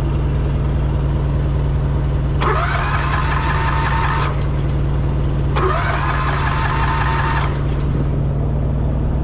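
Pony motor being cranked twice, each a whirring starter run of about two seconds that rises at the start and then cuts off without the motor catching. The helper suspects the motor is not getting full fuel. A steady low engine idle runs underneath.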